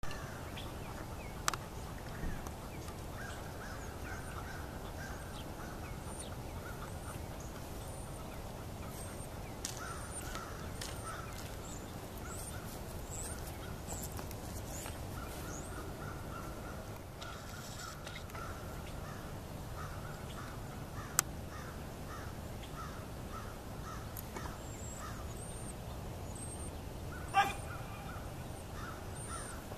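Birds calling: harsh, repeated mid-pitched calls with thin high chirps above them, over a steady low outdoor background. A few sharp clicks cut through, the loudest near the end.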